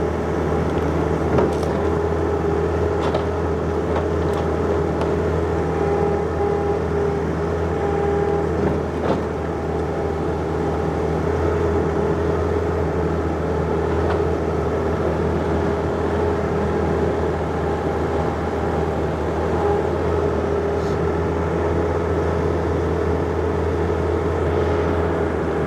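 John Deere 50ZTS mini excavator's diesel engine running steadily under work, with a higher whine that strengthens and fades as the hydraulics are worked. A few sharp knocks sound through it, the loudest about nine seconds in.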